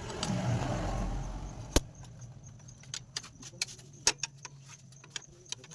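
Honda Shine 125 single-cylinder engine idling with a steady low hum. A louder rush rises in the first second and a half, then one sharp click and scattered light metallic clicks follow.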